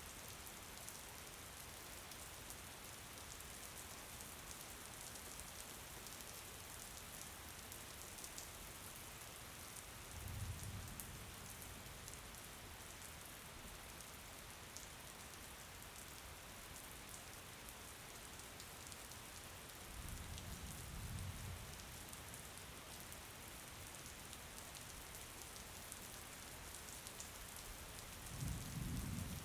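Steady rain hissing, with three short low rumbles about ten seconds apart, around a third of the way in, about two-thirds in and at the very end.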